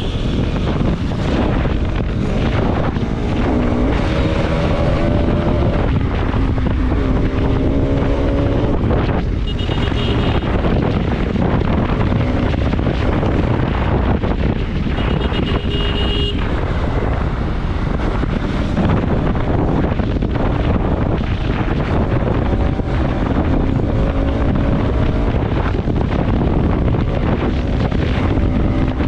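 Bajaj Pulsar RS200's single-cylinder engine on the move, its pitch rising and falling as it is revved through the gears, under heavy wind buffeting on the helmet microphone. A few short horn beeps sound along the way.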